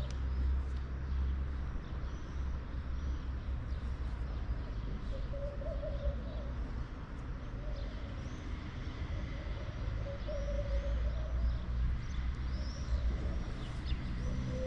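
Morning birdsong outdoors: small birds chirp high and quick, and a lower call of about a second repeats several times. Under it all runs a steady low rumble.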